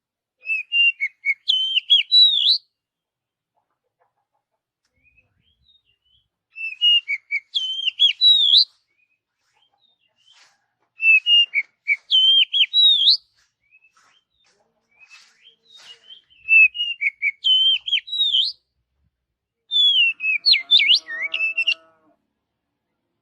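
Oriental magpie-robin (kacer) singing: five phrases of quick, varied whistled notes that rise and fall, each about two seconds long with short pauses between them. Under the last phrase there is a fainter, lower pitched sound.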